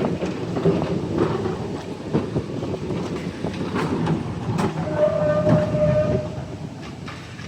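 Heritage tram running on rails: a low rumble with repeated clicks of the wheels over the track, and a steady whine lasting about a second starting around five seconds in.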